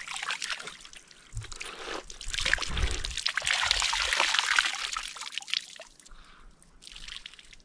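Water sloshing and splashing as clothes are washed by hand, loudest a few seconds in and dying down about six seconds in, with a short splash near the end.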